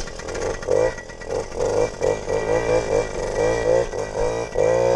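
Small pit bike engine revving in uneven surges, about two a second, as it pulls up a hill under load, then holding a louder, steadier rev near the end.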